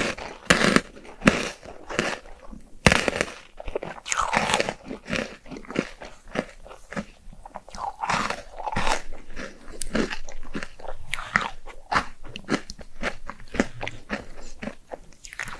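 Close-miked eating: a person biting and chewing food, with crunching and many small irregular clicks, loudest in the first few seconds.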